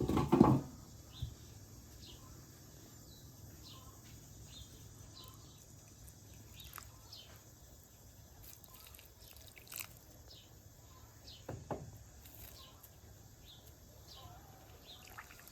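Birds chirping in short calls over a low steady background hum, broken by a few sharp clicks and knocks of handling, the loudest just after the start.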